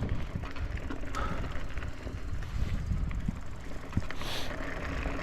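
Mountain bike being ridden over a trail, its drivetrain and freehub rattling and clicking over a steady low rumble.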